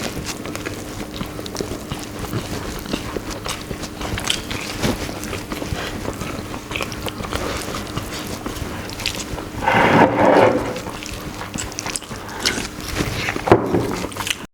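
People eating fast, with chewing and biting and many small clicks and clatters from the food and plates. A louder, noisier burst lasting about a second comes around ten seconds in, and a shorter one near the end.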